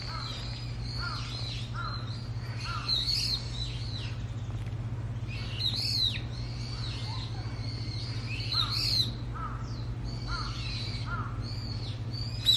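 Birds chirping and calling in overlapping short notes, some high and some lower and repeated, over a steady low hum.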